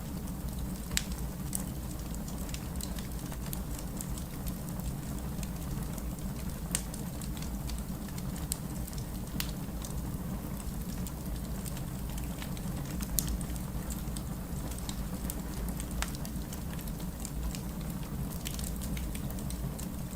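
Steady rain with a wood fire crackling, sharp pops and snaps scattered at uneven intervals over the rain's constant low hiss.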